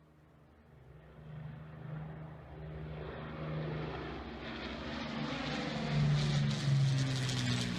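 Avro Lancaster's four Rolls-Royce Merlin piston engines droning as the bomber makes a low flyby, growing steadily louder as it approaches and loudest near the end.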